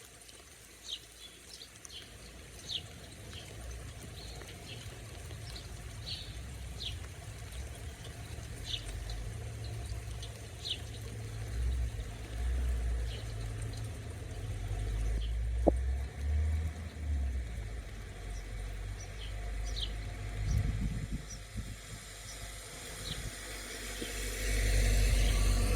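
Birds chirping, with short high calls scattered every second or so over a low rumble. A sharp click sounds once about two-thirds through. A road vehicle's noise swells near the end.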